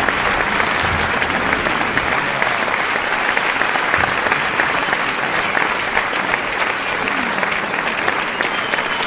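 An audience applauding: many hands clapping in a steady, dense stream with no let-up.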